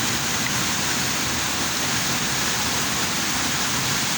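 Rushing water of a rocky river, a steady, even rush with no breaks.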